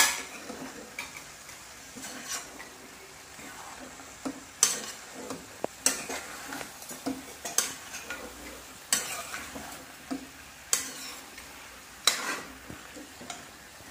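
Marinated chicken pieces and slit green chillies frying in a nonstick kadai with a soft, steady sizzle. A steel spoon stirs and scrapes the pan, clicking against it every second or two.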